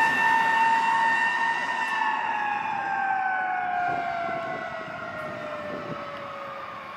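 Fire truck's Federal Q mechanical siren holding a steady high tone, then winding down in a slow falling glide as it coasts after being pinned. It fades as the truck moves away.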